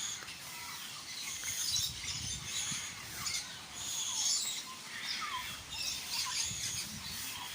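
Many birds chirping and calling at once, with overlapping high-pitched calls and a few short falling whistles.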